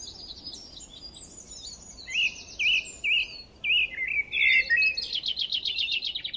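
Several forest songbirds singing and chirping at once, with fast repeated high notes, short slurred whistles, and a rapid trill near the end.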